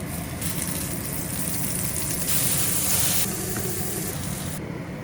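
Food sizzling in hot oil in a frying pan, a steady loud hiss that grows brighter for about a second in the middle.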